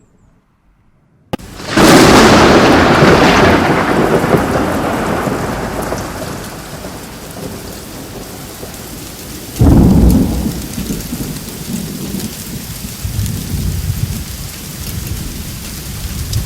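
Thunderstorm: a sudden, loud thunderclap breaks a second or so in and rumbles away over several seconds, and a second clap hits about ten seconds in, both over steady rain.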